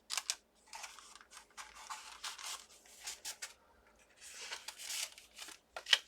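Card stock and paper being handled and slid into place: irregular rustling and scraping swishes with a few sharp ticks.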